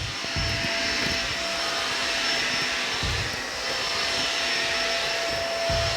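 Shark Navigator self-cleaning upright vacuum running steadily, a rushing whir of air with a thin steady whine.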